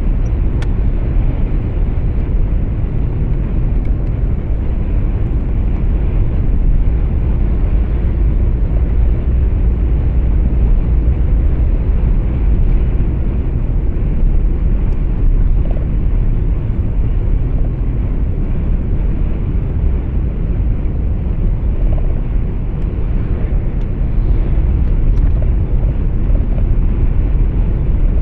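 Steady low rumble of a truck's engine and road noise heard inside the cab while driving, even throughout with no marked changes.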